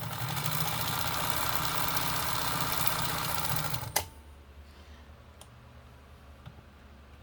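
New Home sewing machine stitching at speed, its refurbished motor driving the hand wheel through a rubber drive wheel; it runs steadily for about four seconds, then stops with a sharp click, followed by a few faint clicks.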